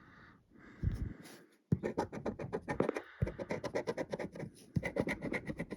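Quick back-and-forth scratching on a scratch-off lottery ticket, about eight strokes a second, starting about two seconds in after a soft bump.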